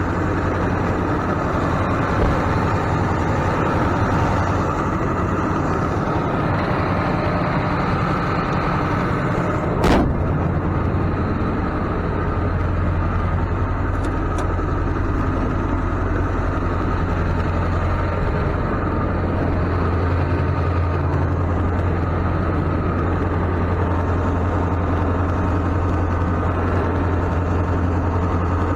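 A vehicle engine idling steadily, with one sharp bang about ten seconds in.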